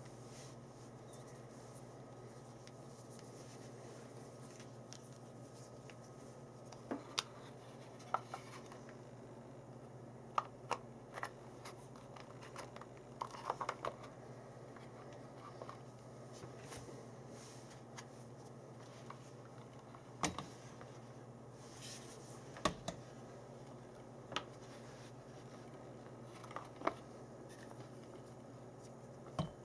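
Scattered light clicks and taps of small objects being handled, over a faint steady hum.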